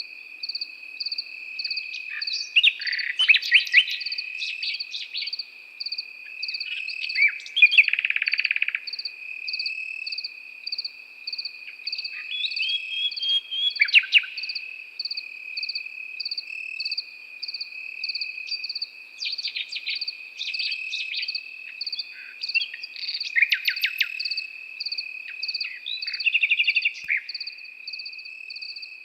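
A nightingale singing in short phrases of rapid, varied notes every few seconds, over a continuous chorus of crickets: one steady high trill and a second, faster pulsing chirp above it.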